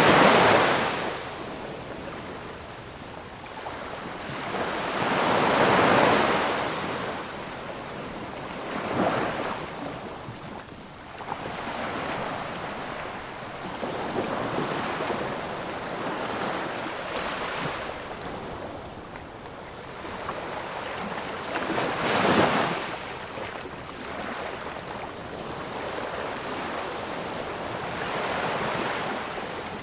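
Ocean waves breaking and washing on a shore, with surges at the start, about six seconds in, around nine seconds and a sharper one near twenty-two seconds, over a steady hiss of surf.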